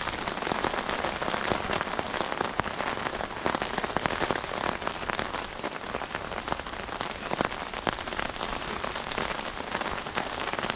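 Heavy rain mixed with hailstones falling on a tarpaulin shelter overhead: a dense, steady hiss full of sharp taps.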